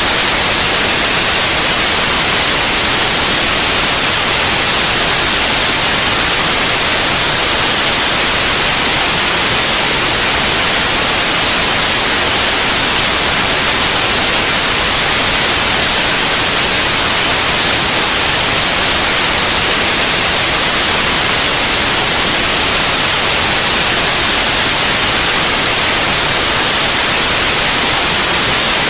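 Steady, loud white noise: an even hiss, strongest in the high frequencies, with no change or break, as played for a baby's sleep.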